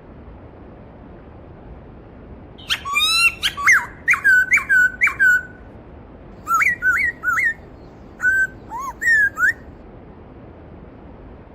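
A songbird singing in three phrases of clear, slurred whistled notes: the first about three seconds in, the second near seven seconds, the third near nine. Under it a steady rush of stream water.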